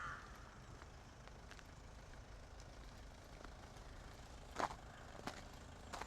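Faint winter city ambience: a steady low rumble of distant traffic, with a few sharp footsteps near the end.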